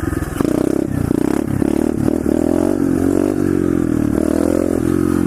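SSR 125cc pit bike's small single-cylinder four-stroke engine running, its pitch rising and falling several times as the throttle is opened and eased off.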